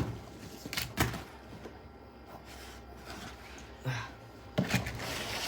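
A few knocks and thuds from objects being handled and set down: one about a second in, then several near the end.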